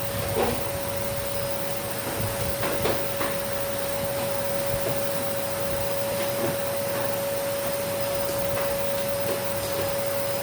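Vacuum cleaner running steadily: a constant whine over a rushing hiss, with a few light knocks.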